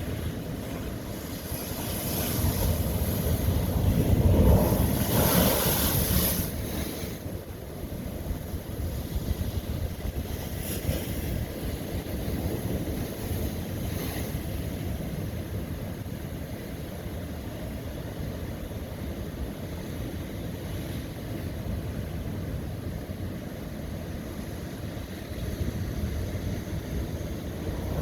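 Ocean wave breaking on lava rock: the surge builds from about two seconds in, crashes loudest around four to six seconds, then settles into a steady wash of water, with the next wave starting to rise near the end.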